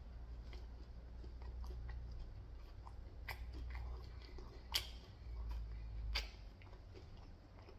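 Close-miked chewing of food, with three sharp crunches or clicks about a second and a half apart, the middle one the loudest.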